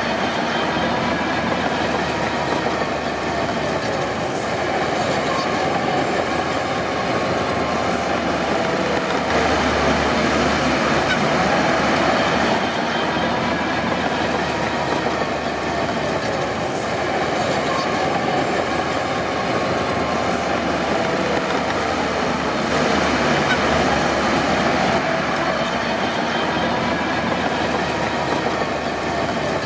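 Crawler bulldozer at work: its diesel engine and steel tracks running steadily, with a faint wavering whine over a continuous dense mechanical noise.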